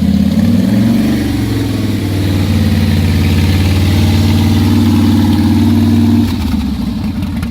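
2005 Harley-Davidson Fat Boy's air-cooled V-twin engine held at raised revs for several seconds, then dropping back to its lumpy, pulsing idle near the end.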